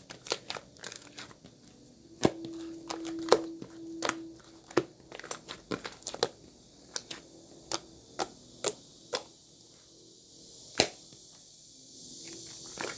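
Irregular sharp crunches and clicks, a couple of dozen of them at uneven spacing, over a faint hiss.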